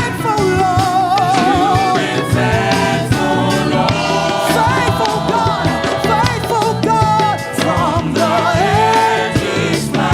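Live gospel praise-and-worship music: singing with vibrato over a full band accompaniment, continuous throughout.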